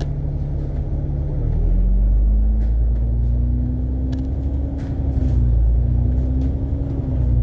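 Alexander Dennis Enviro500 MMC double-decker bus engine, heard from on board. The bus pulls harder about a second and a half in, and the engine note rises and grows louder. The note sags slightly twice and then climbs again, over a low rumble.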